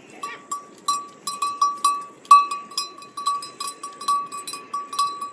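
Small metal animal bell clanking rapidly and irregularly at one steady pitch, several strikes a second.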